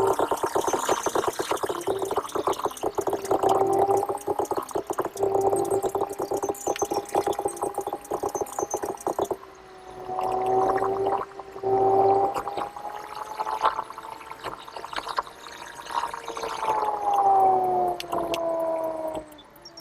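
Car engine running under load on a climb, heard from inside the car: a steady hum in two pitches with a rough, fast pulsing, briefly dropping away twice midway and falling in pitch near the end as the engine lets off.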